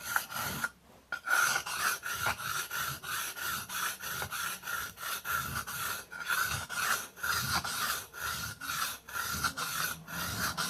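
Steel knife blade stroked quickly back and forth on a whetstone: a rhythmic gritty scrape, about three strokes a second, with a short break about a second in.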